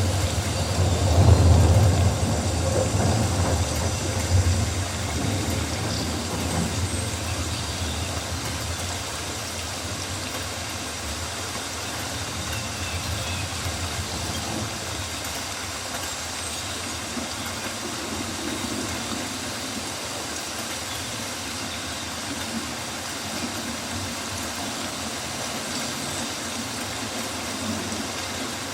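Rainforest ambience: a steady wash of noise over a low rumble, heaviest in the first few seconds and then even, with a few faint high chirps.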